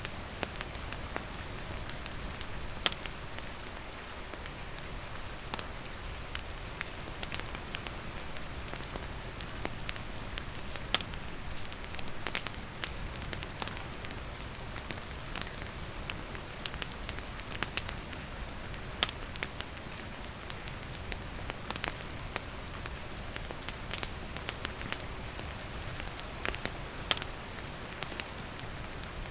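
Steady rain falling, with a wood campfire crackling: sharp pops and snaps scattered irregularly over the patter.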